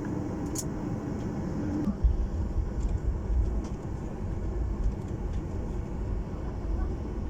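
Boeing 737 MAX 8 heard from inside the cabin while rolling on the ground: a steady hum that stops about two seconds in, then a heavy, uneven low rumble from the wheels and airframe.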